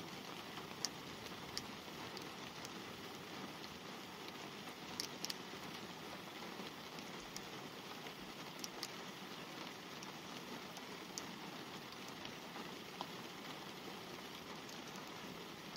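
Light rain falling on a car's glass, heard from inside the car: a steady hiss of rain with a few sharper drop ticks scattered through it.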